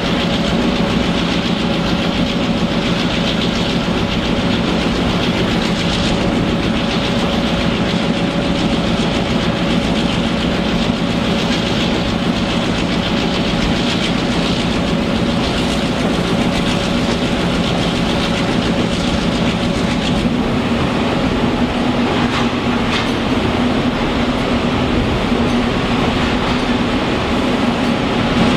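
Passenger train rolling along at steady speed, heard close from an open door of a coach: a steady rumble of steel wheels on the rails with a few clacks over the rail joints.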